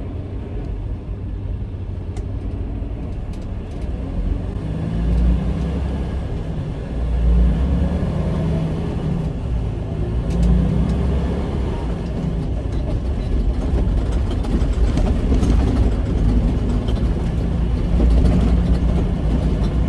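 Diesel semi-truck engine running, heard from inside the cab, surging louder several times a few seconds apart as the truck drives on.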